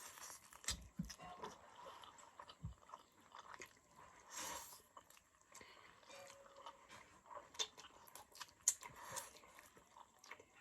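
Quiet mouth sounds of eating instant noodles: chewing, with scattered small clicks and a brief louder noisy burst about four and a half seconds in.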